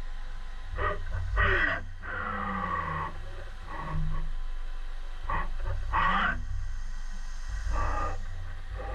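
HAAS Super Mini Mill cutting aluminium: a milling cutter gives off a string of short, pitched whines that slide up and down in pitch as it moves in and out of the cut, over a steady low hum from the machine.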